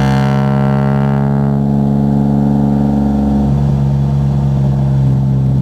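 Car engine running at a steady, unchanging speed, with a brighter, harsher edge that fades out over the first second or so.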